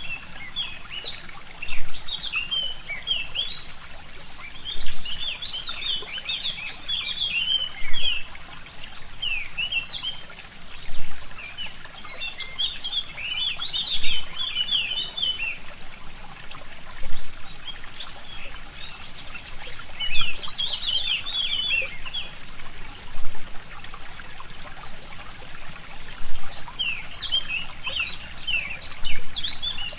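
Forest stream trickling steadily while small birds chirp in quick twittering bouts that come and go. A louder pulse stands out about every three seconds.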